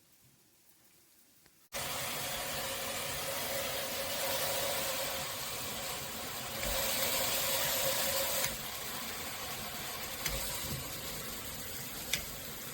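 Water spraying from a high-pressure shower head, a steady hiss that starts abruptly a little under two seconds in and is louder for a couple of seconds past the middle. There is a faint click near the end.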